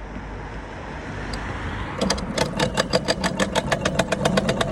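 Dirt bike engine running. A rising hiss builds for about two seconds, then the engine comes in with a rapid, even chugging of about eight beats a second.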